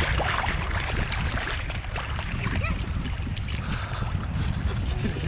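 Wind rumbling on the microphone over sea water washing in the shallows.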